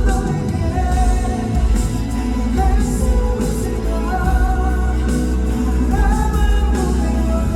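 A man singing a pop song live over instrumental accompaniment with heavy bass.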